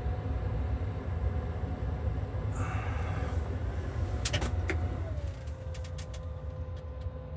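Case IH tractor's diesel engine on a −15 °C cold start without its block heater plugged in, a heavy, steady low rumble. A steady whine drops in pitch about five seconds in, and a few sharp clicks come just before it.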